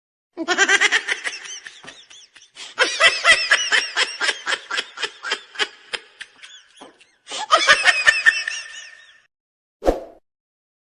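High-pitched laughter in quick, repeated pulses, in three bouts with short pauses between them.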